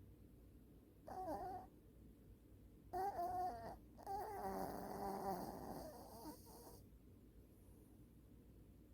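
Small Maltipoo dog snoring in its sleep: three squeaky, pitched snores with a wavering pitch, the last one the longest at about two and a half seconds.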